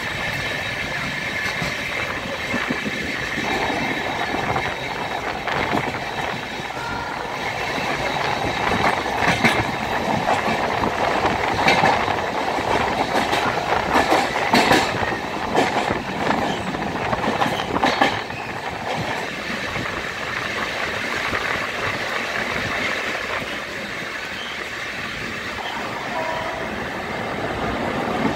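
Passenger train running on the rails, heard from the coach doorway: a steady rumble of wheels on track with clacks over rail joints. It grows louder, with more frequent sharp clacks, in the middle while the train is inside a tunnel.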